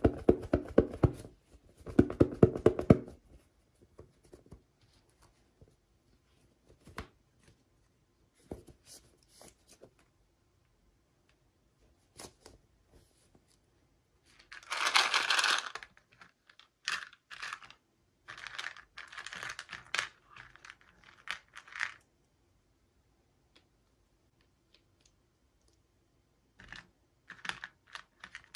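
Toy packaging being handled and opened: irregular bursts of tearing and crinkling with small clicks and taps. The loudest is a rush of tearing about halfway through.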